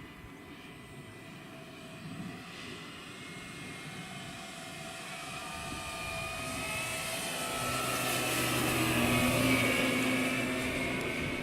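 Electric motor and propeller of a large scale RC model warbird flying past. The whine grows louder to a peak about nine to ten seconds in, then starts to fade, its pitch shifting as it goes by.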